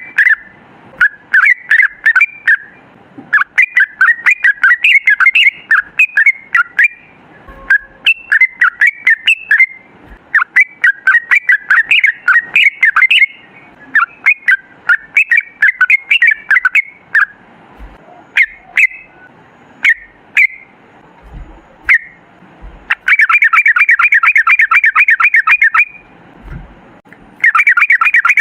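Yellow-vented bulbul (trucukan) singing: short, bubbly chattering phrases one after another. Later comes a long, fast run of evenly repeated notes, the drawn-out ropel, lasting about three seconds, and another run starts near the end.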